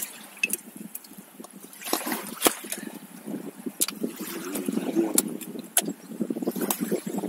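Paddling an inflatable kayak: the paddle dipping and splashing, with water trickling and a scatter of sharp knocks.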